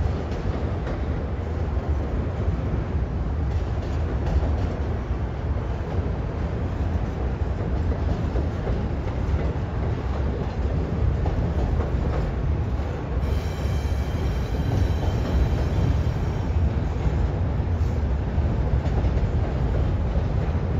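Double-stack intermodal container train rolling steadily across a steel truss bridge, a continuous low rumble of freight cars on the rails. About halfway through, a high squeal rises over the rumble for a few seconds.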